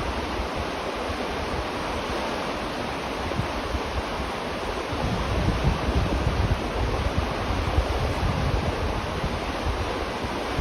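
River water flowing steadily, heard from beneath a bridge. From about halfway through, low gusts of wind on the microphone add an uneven rumble underneath.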